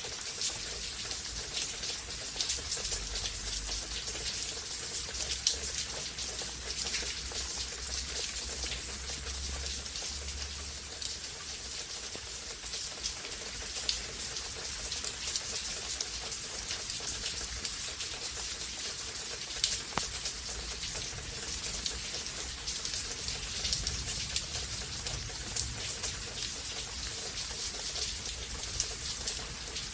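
Steady heavy rain from a summer rainstorm, a dense hiss of falling rain with many individual drops ticking on surfaces. A low rumble sits underneath for roughly the first third, then fades.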